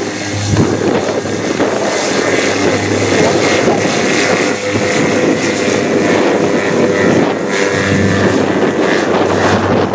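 Airliner's engines running loud and steady, a wide rushing noise with a faint whining tone through it.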